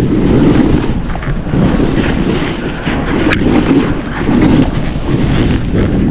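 Wind buffeting a body-worn camera's microphone during a snowboard descent, a heavy rumbling roar, with a snowboard hissing and scraping over snow in repeated short rushes and one sharp click about three seconds in.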